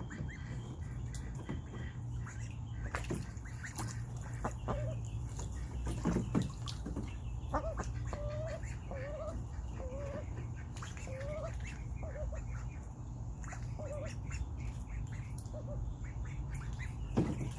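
Young Indian runner ducks giving many short, soft, wavering calls while feeding in a pool, with sharp splashes and pecks now and then over a steady low hum.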